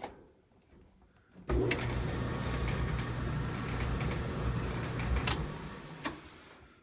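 GE dryer's drive motor starting and turning the drum on its new belt, with a steady low hum and rumble, then winding down and fading near the end.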